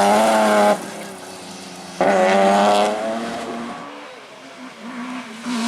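Rally car engine at full throttle, cut off sharply under a second in, back on power about two seconds in and fading as it pulls away. Engine noise rises again, choppy and uneven, near the end.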